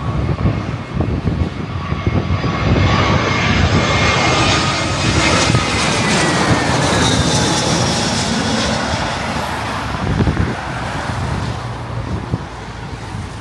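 Jet airliner passing low overhead, its engine whine gliding down in pitch as it goes by, loudest midway and fading near the end, with wind buffeting the microphone.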